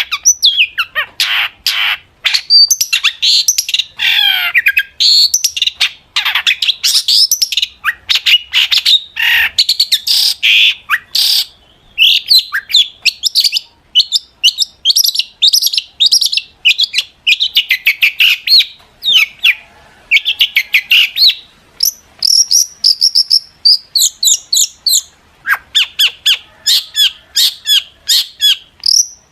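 Long-tailed shrike (cendet) singing in full voice: a loud, fast, almost unbroken stream of harsh chattering and scratchy notes mixed with quick high whistles. Near the end it repeats short high notes.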